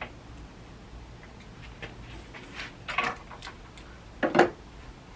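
Staple gun shooting staples to fix a string of Christmas lights in place: two sharp snaps, about three seconds in and again a second and a half later, the second the louder, with light clicks of handling between.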